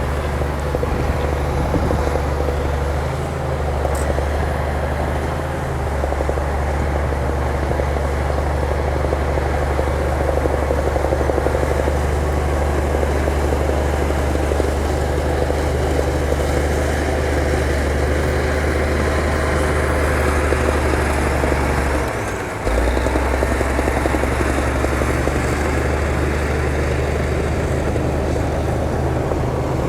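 Bulldozer's diesel engine running steadily under load with a deep, even drone, dropping out for a moment about 22 seconds in before picking back up.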